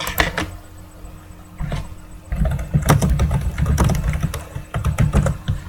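Typing on a computer keyboard: a few clicks at the start, then a dense run of key clicks with low thumps from about halfway through, as a player's details are looked up.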